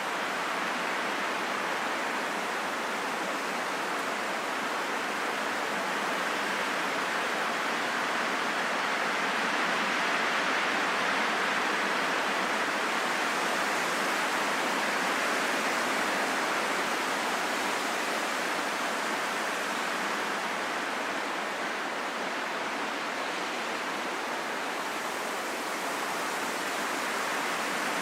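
Steady wind rushing with no gusting howl, swelling a little about ten seconds in and then easing back.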